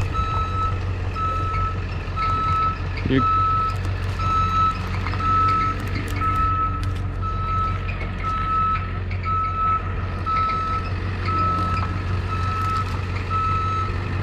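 Reverse alarm on a landscaping machine beeping steadily at about two beeps a second over the low drone of its engine as it backs up. A brief knock sounds about three seconds in.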